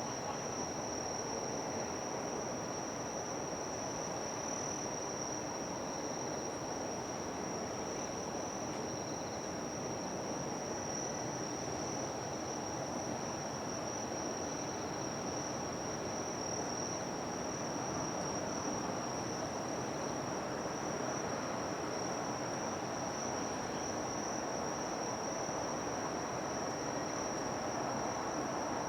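Insects, cricket-like, singing one steady high-pitched unbroken trill over a constant background rush of outdoor noise.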